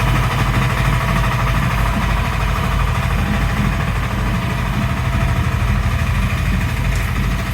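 An engine running steadily at constant speed, a loud unbroken low drone.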